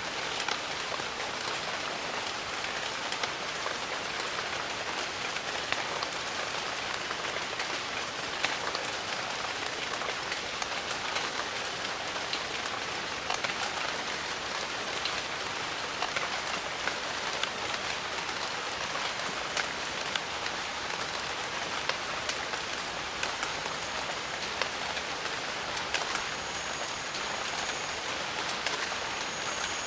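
Steady rain falling in a jungle, a dense even hiss with many close raindrop ticks and pats on leaves and surfaces.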